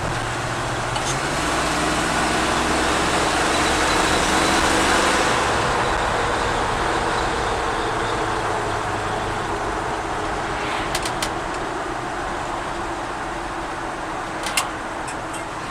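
1978 Ford F-150 Ranger 4x4 driving: the engine pulls harder and climbs in pitch over the first few seconds, then eases off to a steady cruise under road and wind noise. A few sharp clicks near the end.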